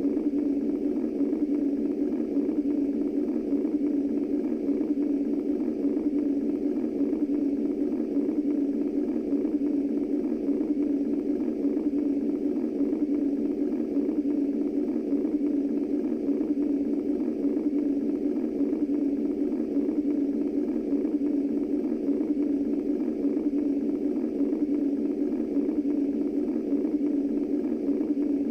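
Womb-style white noise for lulling a baby to sleep: a steady, low, muffled whoosh with no heartbeat or other rhythm in it.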